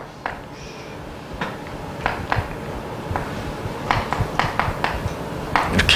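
Irregular light taps and clicks of a teacher writing a step of working on a board, about a dozen strokes, some in quick pairs.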